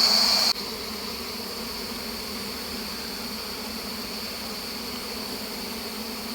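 Swarm of wild honeybees humming steadily as they are smoked out of a split tree-trunk nest. A steady high-pitched insect tone over the hum drops away sharply about half a second in.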